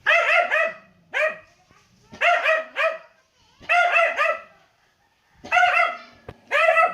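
Cheagle puppy (Chihuahua–beagle cross) barking: high-pitched yapping barks in six short bursts, roughly one burst a second.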